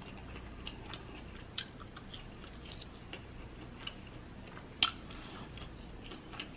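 Close-up chewing of a bite of crisp-fried birria taco: soft wet mouth clicks and small crunches, with one louder click about five seconds in.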